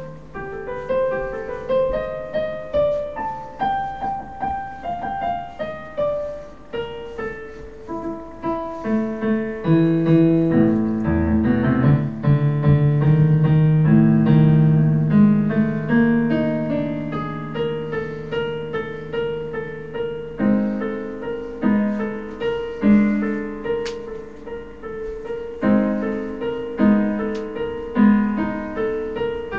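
Solo piano music playing a tune: a running melody over low held chords, turning to repeated struck chords in the second half.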